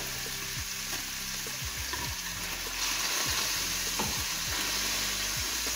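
Diced boneless chicken sizzling in hot oil in a frying pan while a spatula stirs it; the sizzle grows louder about three seconds in.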